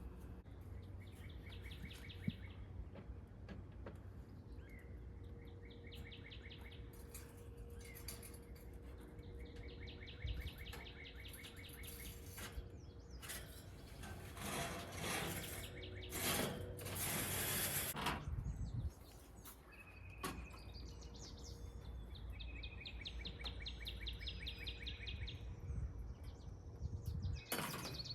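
A songbird singing short rapid trills several times, over a steady low rumble. About halfway through, a few seconds of louder noise cover everything, then the trills return.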